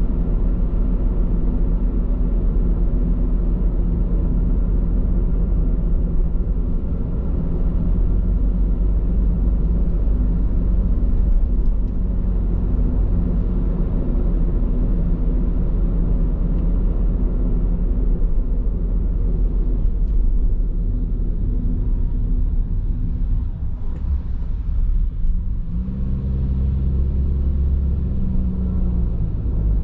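Road noise heard from inside a moving car on Bridgestone Regno tyres: a steady low tyre rumble with an engine hum. About 26 seconds in, the hum changes pitch and grows stronger.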